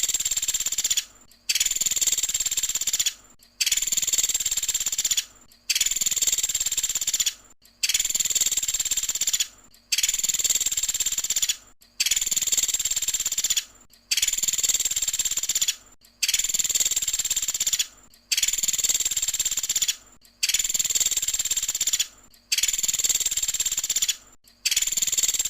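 Pelatuk sampit woodpecker calling: a high, rapid trill in bursts of about two seconds, each followed by a short break, repeating evenly about every two seconds.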